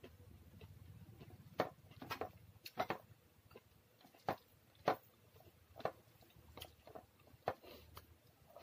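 A person chewing food close to the microphone, with about a dozen sharp clicks and smacks at uneven intervals.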